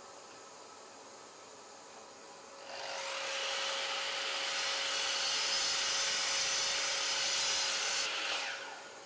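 Makita sliding compound miter saw starting up about three seconds in and running loud and steady as the blade is brought down through a hardwood board. About a second before the end it is switched off and the blade winds down with a falling whine.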